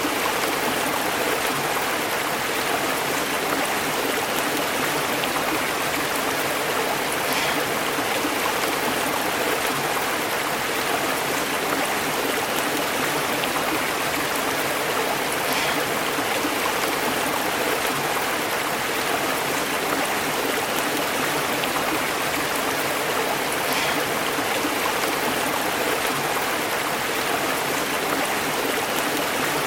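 Stream burbling and bubbling over rocks: a steady rush of flowing water, with a faint brief splash about every eight seconds.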